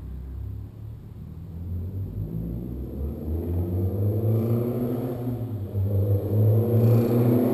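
BMW E30 M3 Cecotto's S14B23 2.3-litre four-cylinder engine, with carbon airbox and tubular headers, running low at first and then revving up, climbing in pitch and loudness from about two seconds in.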